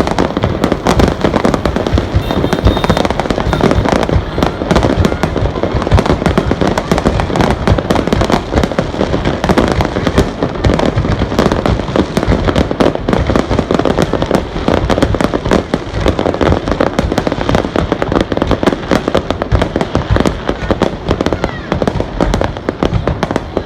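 Fireworks display: a dense, unbroken barrage of bangs and crackles, many shells bursting close together.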